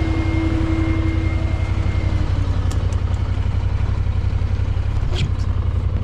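Vehicle engine idling steadily with an even low rumble. A thin steady whine over it dies away about two seconds in, and there are a few light clicks and a brief squeak near the end.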